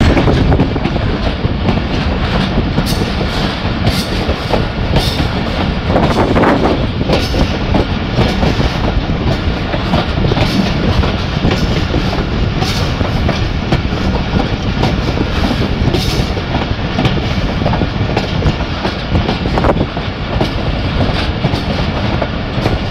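Passenger train coaches running at speed through a curve, heard from an open coach doorway: a steady loud running noise with wheels clacking over the rail joints.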